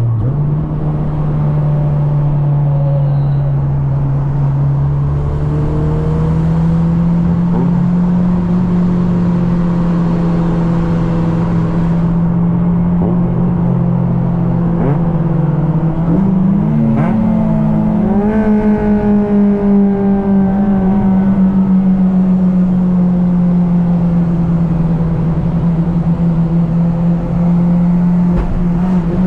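Honda Civic engine running hard at high, steady revs while driving at speed, its note creeping slowly upward. About two-thirds of the way in, a second engine note rises and crosses it briefly, as another car pulls alongside.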